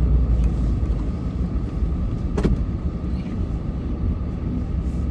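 Plow truck's engine running under load, heard from inside the cab as a steady low rumble, with a single sharp click about two and a half seconds in.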